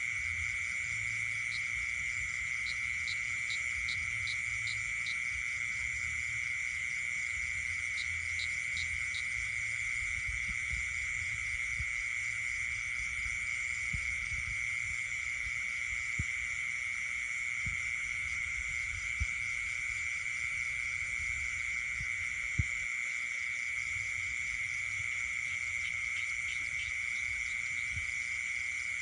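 Night chorus of frogs and insects: a steady, high-pitched trilling drone, with a few short runs of quick, evenly spaced pips over it and a few faint clicks.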